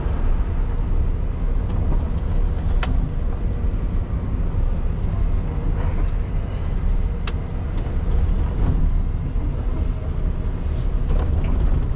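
A 2016 Scania R620's 16-litre V8 diesel truck engine running steadily under way, with a continuous low rumble and a few faint scattered ticks.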